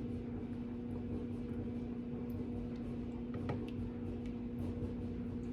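Steady hum and low rumble of a clothes dryer running, with a few faint clicks of a utensil in a dish a little past halfway.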